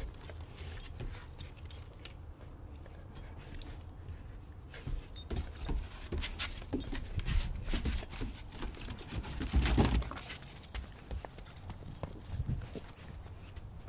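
Two dogs, one a Maltipoo, play-fighting: scuffling and scrabbling with many small clicks and knocks, and one louder thump about ten seconds in.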